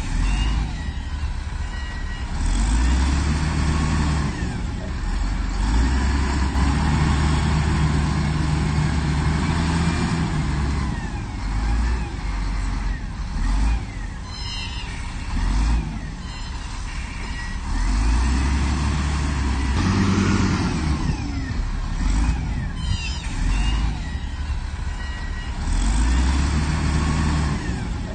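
Heavy diesel earthmoving machine working, its engine revving up and settling back in repeated surges every several seconds, with a few short, sharp knocks.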